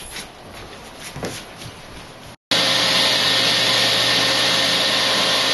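A few faint clicks, then a table saw starts abruptly about two and a half seconds in and runs loud and steady, with a constant whir and hum.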